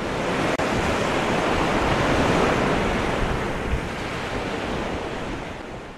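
Wind and waves on open water: an even rushing noise that swells, then fades toward the end.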